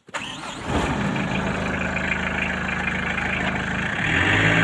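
A vehicle's engine is cranked and catches, then runs steadily at idle; it gets louder about four seconds in.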